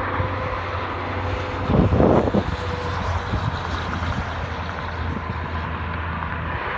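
Heavy truck running at highway speed: a steady low engine drone with tyre and road noise, and a brief loud rush of noise about two seconds in.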